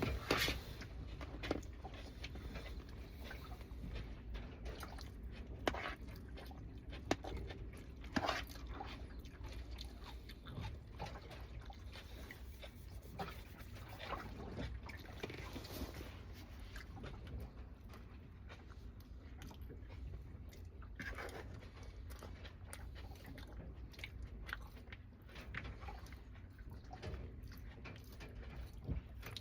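A person chewing and biting food, with irregular crunches and small mouth clicks.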